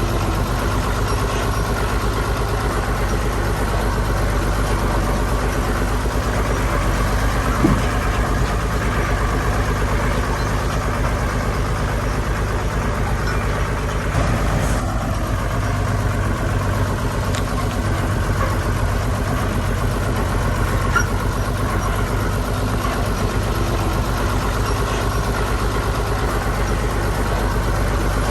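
Heavy diesel engine of earthmoving machinery running steadily, with one short knock about eight seconds in.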